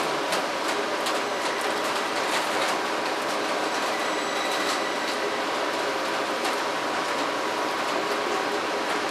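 TER regional multiple unit pulling away over curved station tracks: steady running noise with a scatter of wheel clicks over the rail joints, thinning out after the first few seconds.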